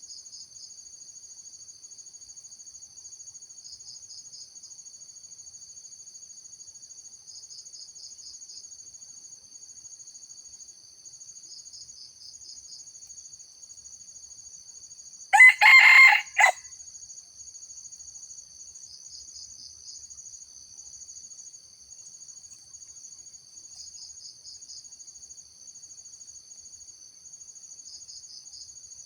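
A junglefowl rooster crows once, a short call of about a second midway through. Underneath, insects trill steadily on high notes, with a pulsing note every few seconds.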